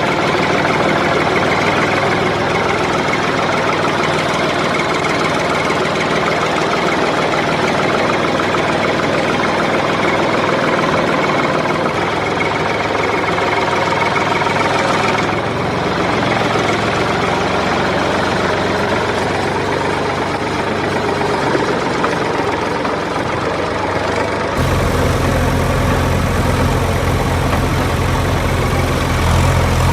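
Vehicle engine running steadily, in the manner of a tractor or truck engine sound. About 25 seconds in, a deeper engine sound with a strong low rumble takes over.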